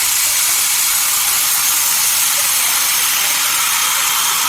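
Sawmill saw cutting through a dense desert redwood log: a loud, steady hiss that does not let up.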